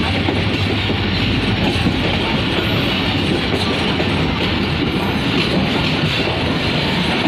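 Passenger train running along the track: the steady rumble and clatter of coach wheels on the rails.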